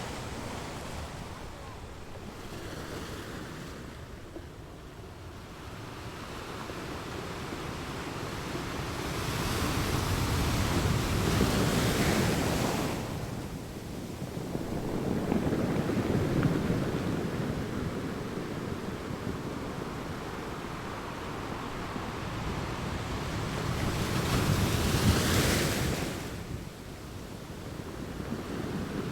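Ocean waves breaking on a beach: a steady wash of surf that swells into two louder breakers, about twelve seconds in and again about twenty-five seconds in, each falling away quickly.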